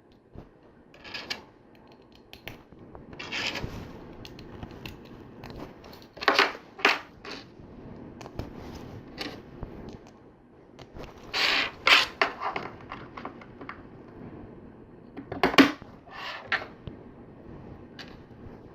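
Plastic LEGO Technic pieces clicking and clattering as they are picked up, handled and pressed together, in irregular bursts with a few sharper snaps.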